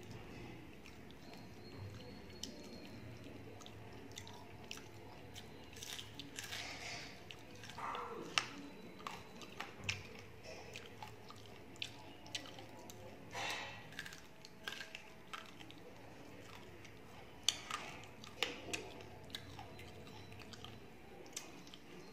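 A person chewing and biting crisp fried fish and rice, eaten by hand. Small crunches and many sharp mouth clicks and smacks are scattered throughout, with a few louder wet smacks.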